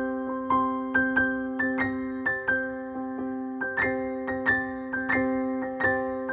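Background music: a gentle piano melody of single struck notes, about one or two a second, over held low notes.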